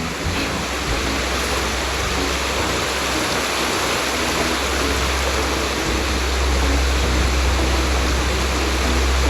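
Rushing water, a steady loud hiss, with a deeper rumble underneath that grows louder about six seconds in.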